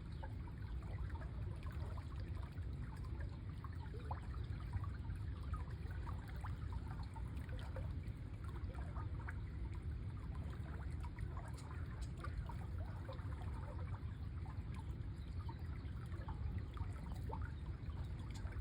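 Water trickling and babbling steadily, as of a small stream, with many small splashes over a steady low rumble.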